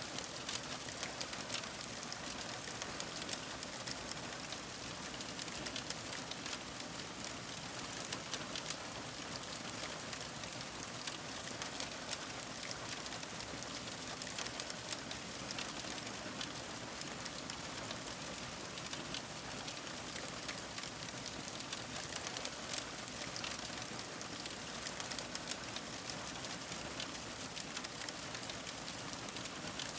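Fire crackling: a steady hiss with many small, sharp crackles and pops scattered densely throughout.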